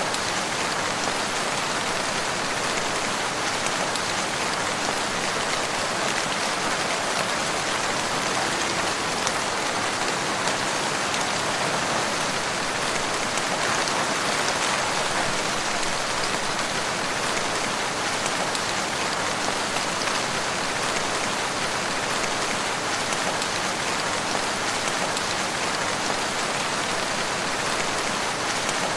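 Steady rain falling, an even hiss of fine drops that holds at one level throughout.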